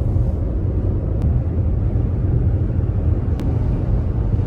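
Steady low rumble of a car driving on the road: road and engine noise.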